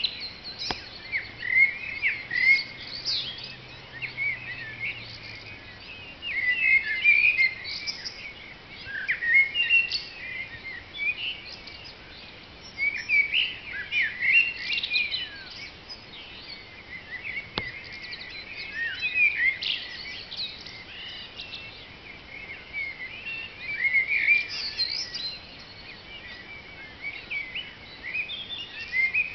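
Dawn chorus of several songbirds singing at once: overlapping whistled phrases and chirps that come in bursts every few seconds, with quieter gaps between them.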